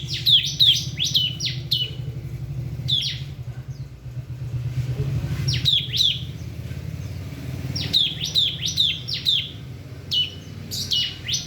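Bar-winged prinia (ciblek) singing in quick bouts of short notes that each fall in pitch, several notes a second, with pauses of a second or two between bouts. A steady low hum runs underneath.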